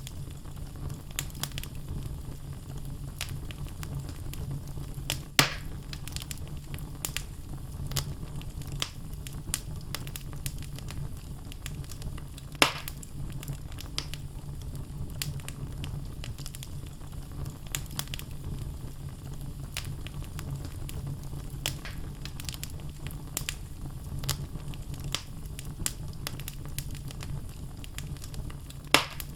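Wood fire burning in a fireplace: a steady low rumble of flames with frequent small crackles from the burning logs, and a few louder pops, about five seconds in, near the middle and near the end.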